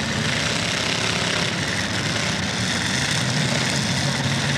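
Demolition derby cars' engines running together in a steady, continuous mix, with one low steady engine note standing out more near the end.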